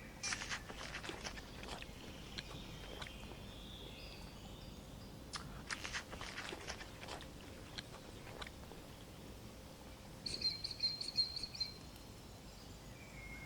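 Giraffe chewing and crunching on browse, in clusters of crisp clicks, with birds chirping in the background; a louder, high bird call comes about ten seconds in.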